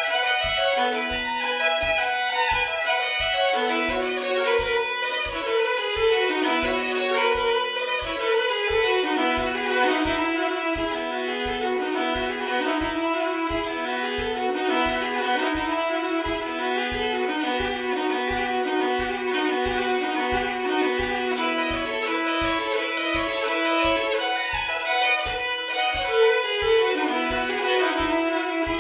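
Hardanger fiddle playing a lively solo folk tune, the melody bowed over a recurring low drone note in double stops. Steady low thumps keep the beat beneath it, about three every two seconds.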